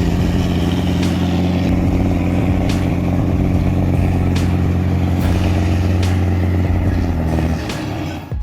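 Scania 113 truck's diesel engine running hard at a steady, unchanging pitch, with a few sharp clicks. Near the end it drops in level and cuts off suddenly.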